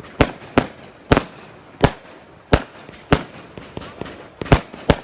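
A Celtic 'Glimmer Galour' firework cake firing shot after shot. Each shot bursts with a sharp bang, about eight in all, at uneven gaps of half a second to over a second.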